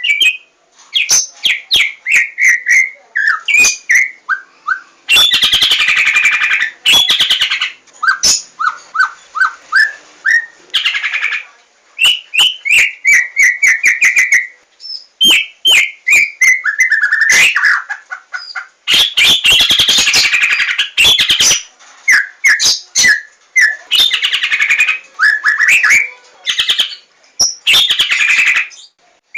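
White-rumped shama (Javan murai batu, 'larwo') singing a varied song: phrases of rapid repeated notes and sliding whistles alternate with harsh, scratchy rattles, broken by short pauses.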